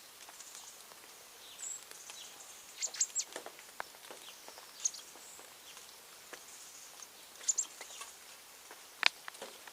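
Birds giving short, high chirps at a feeding spot, with scattered sharp clicks and taps. The loudest tap comes about nine seconds in.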